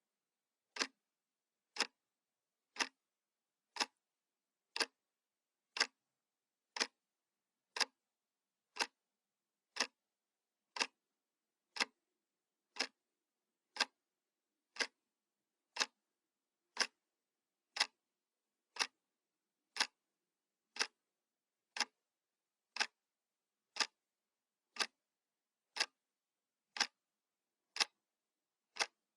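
Analog wall clock ticking steadily, one sharp tick each second with silence in between.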